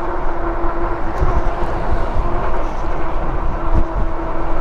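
Wind rushing and buffeting over an action camera's microphone while riding an electric bike, with a steady hum under it that stops near the end.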